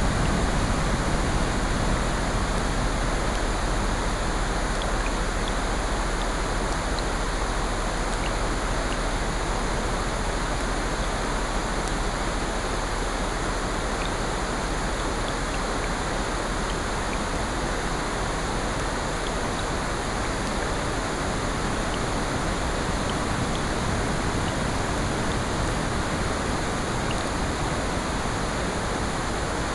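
Steady ambient mix of rain and ocean surf: an even, continuous wash of water noise, with a few faint scattered ticks.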